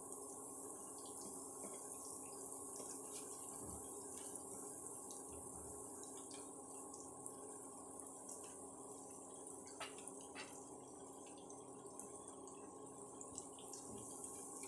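Malpua batter pancakes frying in hot ghee: a steady, faint sizzle with scattered small pops and clicks from the bubbling fat and the spatulas, over a steady hum from the induction cooktop.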